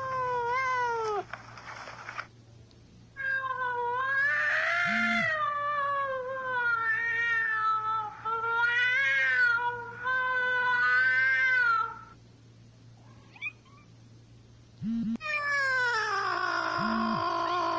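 Cat yowling in long, drawn-out calls that waver and slide down in pitch: a few falling calls at the start, one long wavering yowl lasting several seconds, then after a short pause another long falling yowl near the end.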